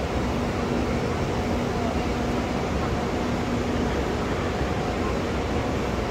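SRT high-speed train standing at a station platform with its equipment running: a steady mechanical hum and hiss, with a faint low tone that breaks off now and then.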